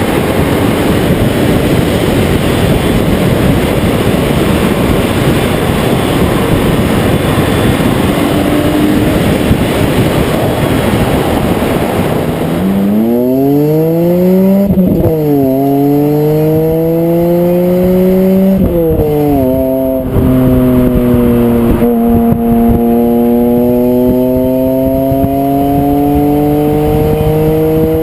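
BMW E46 M3's 3.2-litre inline-six through a Dinan exhaust, accelerating hard through the gears: the note climbs, drops at each upshift and climbs again, with a long steady pull in the last gear. For about the first half a loud rushing noise covers the engine.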